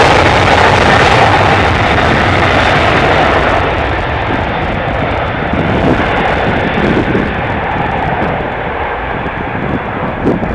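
Boeing 767-300 jet airliner's twin turbofan engines at takeoff thrust, a loud rushing roar that fades and loses its high end as the aircraft moves away. Irregular low buffeting from strong wind on the microphone toward the end.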